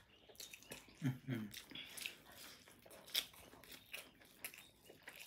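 Chewing and mouth clicks of people eating buffalo meat and biryani rice, with a short hum of voice about a second in.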